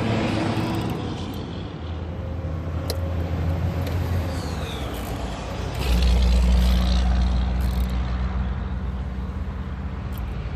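A motor vehicle's engine droning, growing louder about six seconds in and easing off toward the end, with a few faint clicks.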